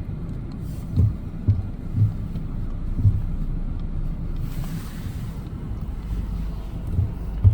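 Wind buffeting the microphone: a steady low rumble with irregular low thumps, and a brief rise of hiss about halfway through.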